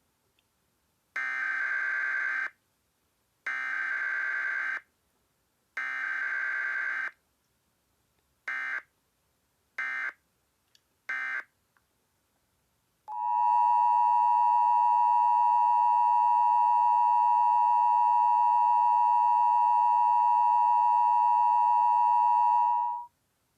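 Emergency Alert System-style weather alert opening. Three long and then three short bursts of screeching digital header data are followed by a loud, steady attention tone near 1 kHz that holds for about ten seconds.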